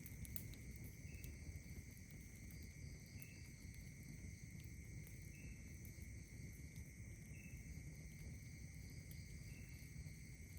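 Faint night insects trilling steadily at several high pitches, with a short chirp repeating about every two seconds. Under them is a low steady rumble with scattered faint crackles, the campfire.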